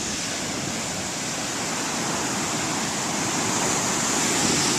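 Big ocean waves breaking as a steady rushing roar of surf, swelling louder toward the end.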